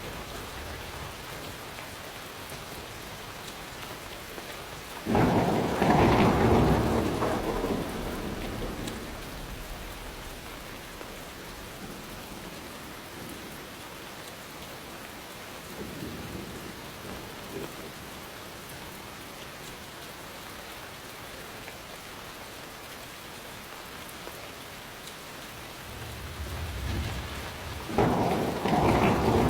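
Steady rain falling, with thunder. A sudden loud thunderclap comes about five seconds in and rumbles away over a few seconds, a faint rumble follows in the middle, and near the end a low rumble builds into a second loud clap.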